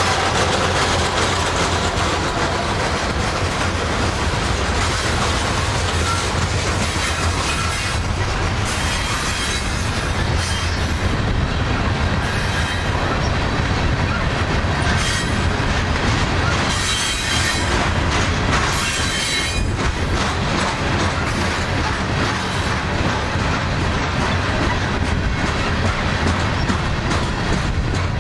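Coal hopper cars of a long freight train rolling slowly past on steel rails, with a steady rumble of wheels and a clickety-clack over the rail joints. High-pitched wheel squeal rises and fades several times as the cars go by.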